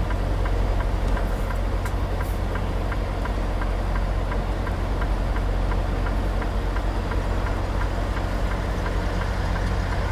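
Semi truck's diesel engine running at low idle while maneuvering: a steady low hum with a fine, rapid diesel clatter.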